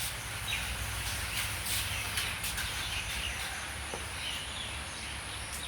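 Outdoor ambience: a steady background hiss with a low hum underneath and a few faint, short chirps.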